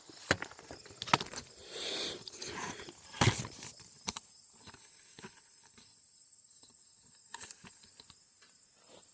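A few sharp knocks and rustling from handling and movement, then a steady high-pitched hiss that starts abruptly about four seconds in and holds.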